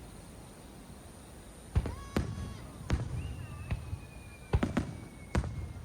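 Aerial fireworks bursting: a string of sharp bangs starting about two seconds in, and a long high whistle that glides slowly down in pitch from about three seconds in.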